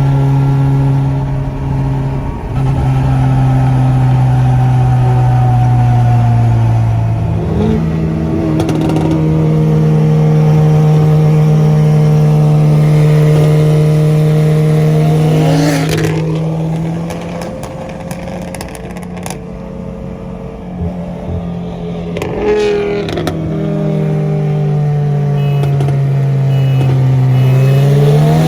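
Car engine running at a steady speed, a droning note that steps to a new pitch a few times, then climbs as the car accelerates near the end.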